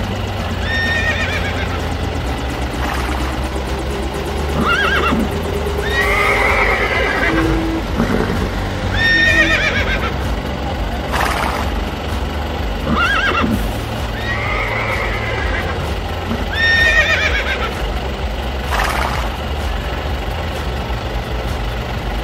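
Horses neighing and whinnying over and over, about ten calls one every two seconds or so, over a steady low rumble.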